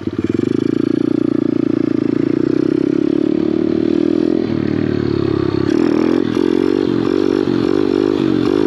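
Kawasaki pit bike's small single-cylinder engine running at steady revs, then, from about halfway through, revving up and down quickly as the throttle is worked to hold a wheelie.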